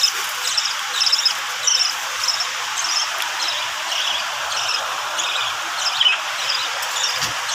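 Pet parrots chirping in short high calls, repeating about once or twice a second, over a steady hiss of rain.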